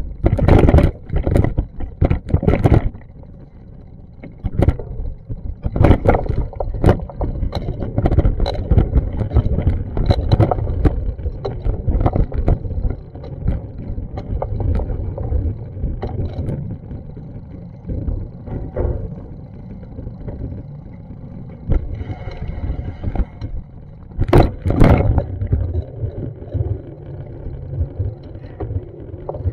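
Outdoor street ambience picked up by a handheld action camera: a constant low rumble with irregular knocks and bumps, the loudest about a second in, near six seconds and about twenty-five seconds in.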